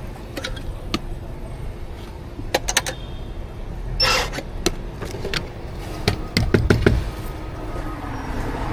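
Clicks and knocks of coffee-making equipment being handled, with a short hiss about four seconds in, over a faint steady hum.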